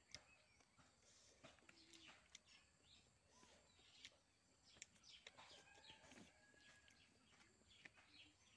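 Near silence: faint bird chirps in the background, with a few soft clicks scattered through.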